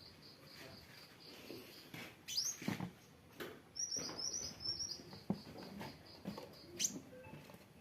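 Sunbird (kolibri wulung) singing actively: a fast run of thin, high repeated notes, broken by sharp down-swept chirps about two seconds in, a quick string of them around four seconds and another near the end. A few soft knocks sound under the song.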